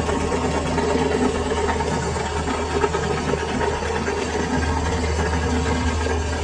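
Workshop machinery running steadily: a constant low hum with a mechanical rattle.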